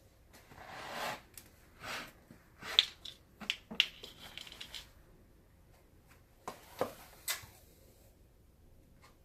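Handling noises from work on a leather baseball glove: irregular rustling and scraping with a few sharp clicks, in two bursts with a pause between.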